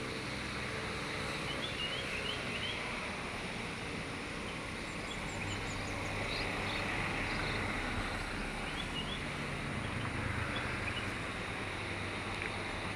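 Outdoor background noise with a low steady hum, and small birds chirping briefly now and then, in short rising notes.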